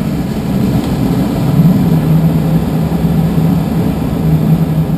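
Steady in-flight cockpit noise of a light aircraft: a constant low drone with rushing air, heard from inside the cockpit.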